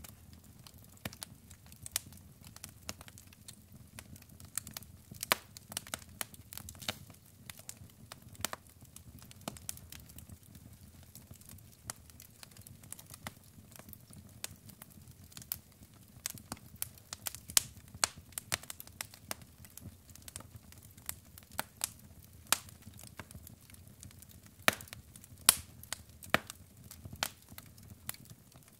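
Wood fire in a fireplace crackling: burning logs give off irregular sharp pops and snaps, a few louder ones scattered through, over a low steady rumble of the flames.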